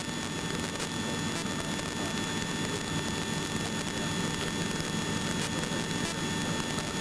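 Helicopter cabin noise in flight: a steady, even rushing drone with a few faint, steady high-pitched whines over it.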